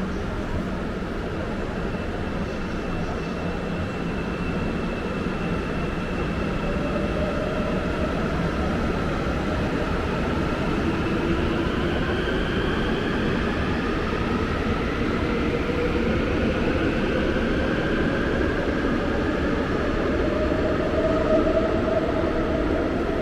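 Electric train running, with a steady rumble and a motor whine that climbs slowly in pitch as it gathers speed.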